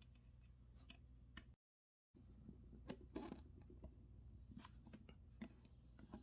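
Near silence with a few faint clicks and scrapes of metal as a screw-down watch case back is twisted loose. The case back is stiff and hard to turn.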